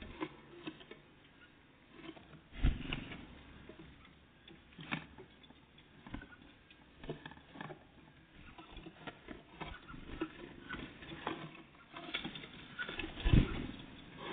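Great tits and blue tits pecking and hopping at a feeding spot: irregular light taps and clicks, with two louder thumps, one about two and a half seconds in and one near the end.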